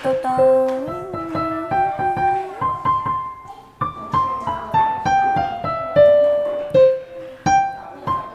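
Piano playing a simple tune, one struck note at a time, rising early on and then stepping down note by note.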